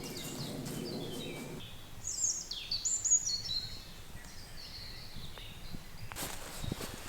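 Small birds singing in woodland: repeated high chirps, with the loudest phrase, a run of high falling notes, about two seconds in. A short rustle near the end.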